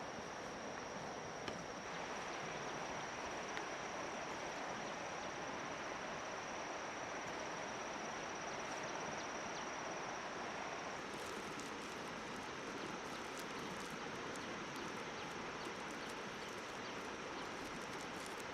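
Steady outdoor background noise with a thin, constant high whine that stops about halfway through. Light scattered crackling clicks come in after it.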